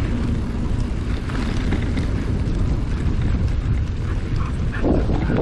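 Steady low rumble of wind buffeting the microphone, mixed with rolling noise from riding along a trail, with a few faint short sounds near the end.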